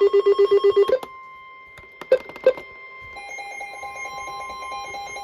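Weather radio warning alert: a loud, rapidly pulsing electronic tone, about ten pulses a second, that stops about a second in. A fainter steady tone follows, with two sharp clicks a little past two seconds.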